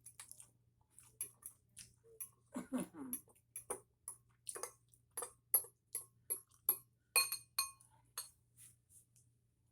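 Light clinks and taps of tableware being handled, about two a second, with a short ringing clink about seven seconds in.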